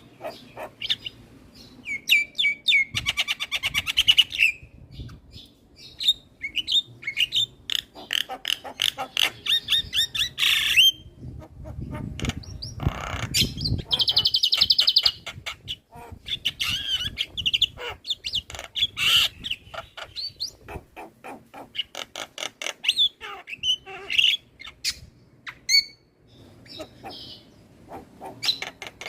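Javan myna singing energetically: a varied run of rapid clicking rattles and high pitched notes, with a rough, noisy call about twelve seconds in.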